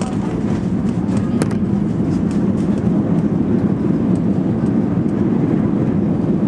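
Airliner cabin noise during landing: a steady, loud low rumble of engines, airflow and airframe, with a few light clicks and rattles in the first couple of seconds.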